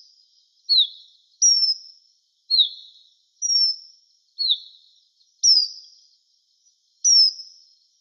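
A bird calling: short, high, downslurred whistles about once a second, alternating between a higher note and a slightly lower one.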